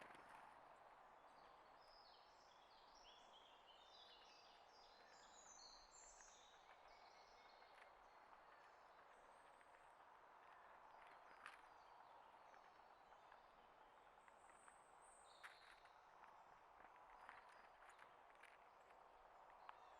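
Faint outdoor ambience with small birds chirping: a quick run of short, high notes for several seconds early on, a few more later, and scattered light clicks.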